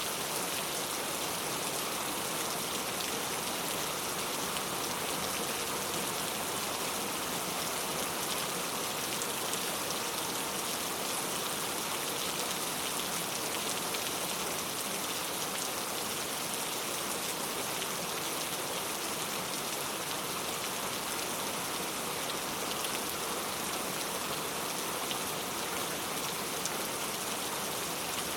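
Heavy rain falling steadily, a dense even hiss of drops with faint scattered ticks of individual drops.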